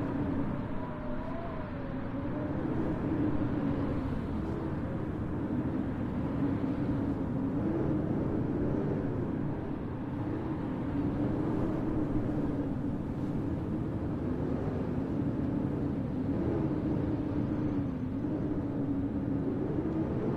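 Blizzard wind blowing steadily, with a low howl that wavers slowly in pitch.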